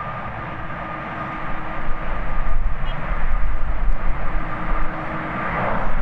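Jet airliner engines: a steady whine over a rushing roar, with strong gusty wind buffeting the microphone. The jet noise swells near the end.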